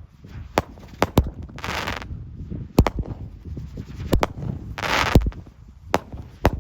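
Dominator Atom Smasher 8-shot 200-gram firework cake firing: a string of sharp bangs from the shots launching and breaking, with two half-second hissing rushes from its spinning tails.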